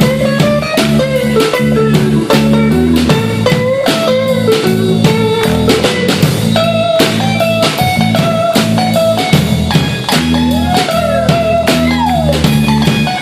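Band playing an instrumental break: a lead guitar line with bent notes over bass and a steady drum kit beat.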